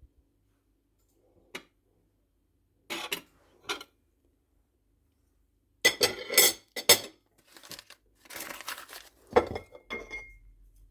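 Dishes and cutlery clinking and clattering: a few separate clinks, then a busier run of clatter from about six seconds in, ending with a short ringing clink.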